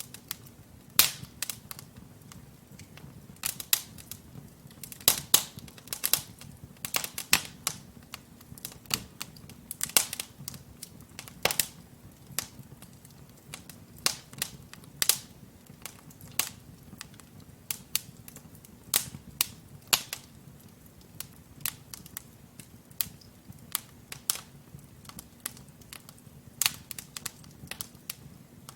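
Wood fire in a fireplace crackling and popping as the logs burn: irregular sharp snaps, a few louder pops, over a low steady rush of flame.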